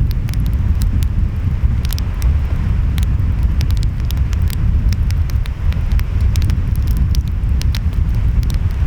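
Wood fire crackling with frequent sharp pops, over a steady low rumble of wind and waves.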